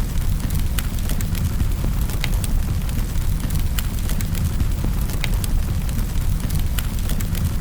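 Fire burning in a fireplace: irregular sharp crackles and pops, a few a second, over a steady low rumble.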